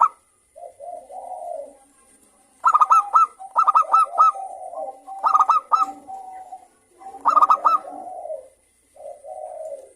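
Zebra doves (perkutut) cooing and answering each other. Each call starts with a run of quick, high staccato notes and slides into lower rolling coos, and the calls overlap.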